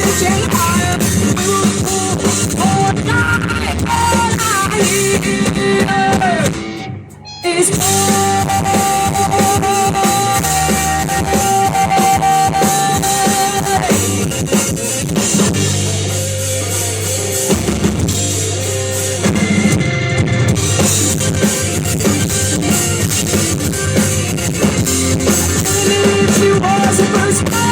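Live rock band playing, with drum kit and electric guitar. The band cuts out for a moment about seven seconds in, then comes back in on a long held note.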